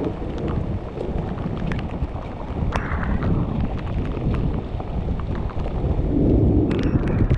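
Heavy rain, with frequent sharp drop hits close by, over a deep steady rumble.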